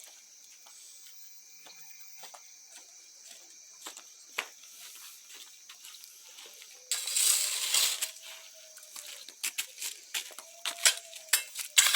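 Wood bonfire crackling and popping: scattered small pops at first, then a loud rush of noise about seven seconds in and a run of louder, closer pops near the end.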